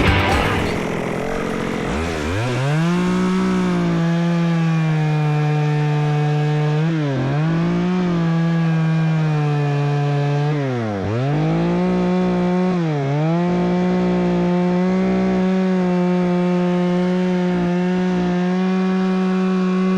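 Chainsaw cutting through wood: it spins up about two seconds in and is held at high revs, its pitch dropping briefly three times as the chain bogs down in the cut, then slowing at the very end.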